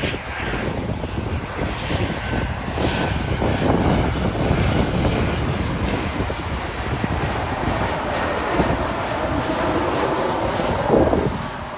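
Fixed-wing airplane's engines running loud and steady, a dense rumbling roar that eases slightly near the end.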